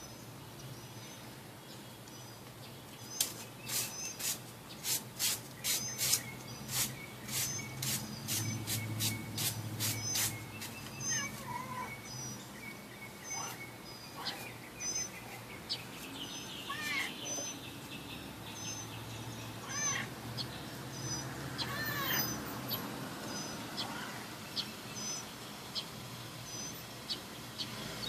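A small bird chirping outdoors, a short high two-note call repeated about once a second, with a few other sweeping bird calls. A run of sharp clicks, about three a second, sounds for several seconds near the start.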